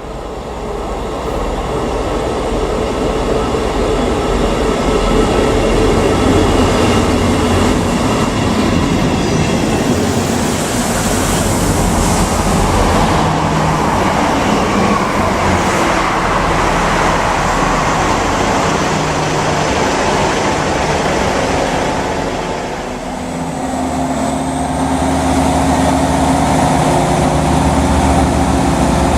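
A train running past on the main line, a loud continuous rumble of engine and wheels on rail. About two-thirds of the way through the noise dips briefly, then a steady engine drone with a high thin whine takes over.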